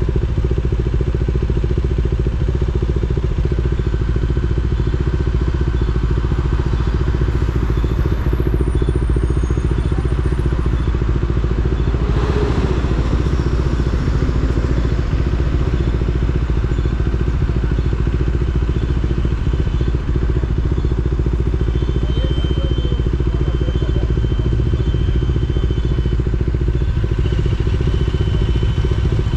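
KTM Duke 390's single-cylinder engine running at low, steady revs while crawling in traffic. There is a brief rush of noise about twelve seconds in.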